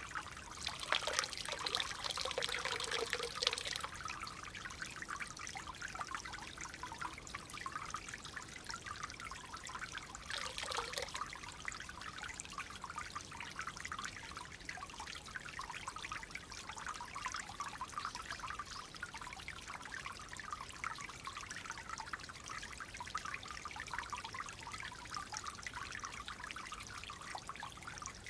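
Shallow stream of clear water trickling and gurgling steadily. Two louder splashing surges come through, one about a second in lasting a couple of seconds and a shorter one around ten seconds in.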